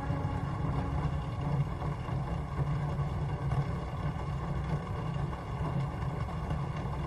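Steady rain noise with a heavy low rumble, with no clear drops or rhythm.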